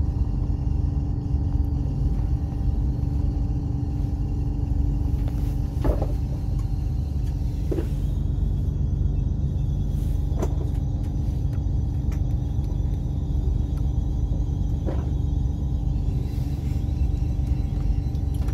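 Interior running noise of a Bombardier AGC railcar: a steady low rumble with a constant hum, and a few sharp knocks from the running gear spread through it.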